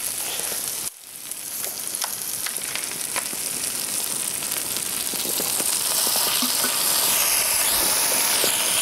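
Butter and garlic sizzling in a frying pan for a lemon butter sauce, briefly quieter about a second in, then building louder as liquid is poured in from a plastic bottle.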